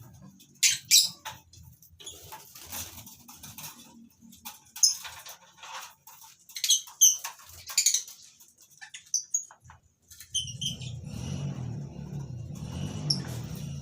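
Lovebirds chirping in short, shrill calls that come on and off in scattered clusters. A steady low rumble joins about ten seconds in.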